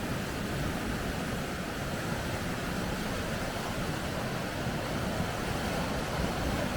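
Steady rushing of water running over river rapids.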